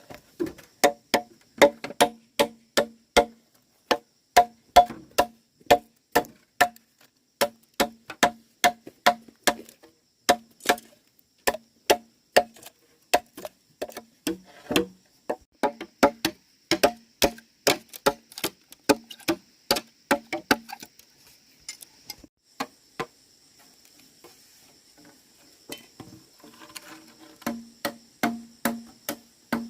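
A tool striking wood over and over in a steady rhythm, about two to three hollow-sounding knocks a second. It stops about two-thirds of the way in, leaving a faint steady high tone, then the knocking starts again near the end.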